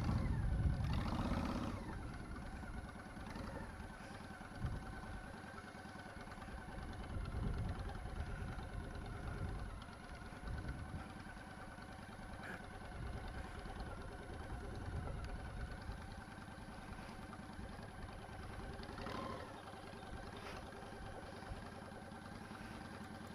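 Motorcycle engine running at a low, nearly steady speed as the bike is ridden slowly, with low wind rumble on the microphone near the start.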